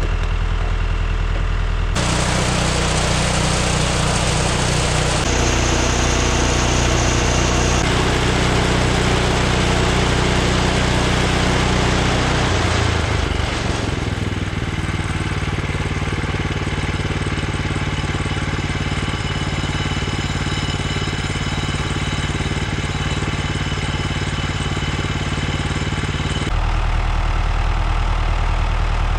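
Tractor engine running steadily at low revs, its pitch and note changing abruptly a few times.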